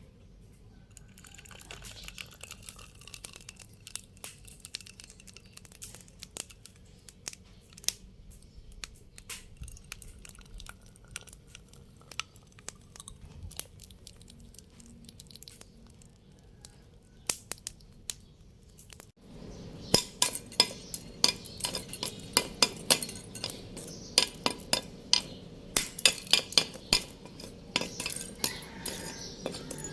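Light clinks and taps of hand tools on metal, sparse at first. After an abrupt change about 19 seconds in, they become louder and busier.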